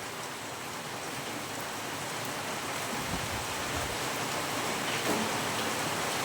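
Heavy rain falling in a steady hiss, growing slowly louder.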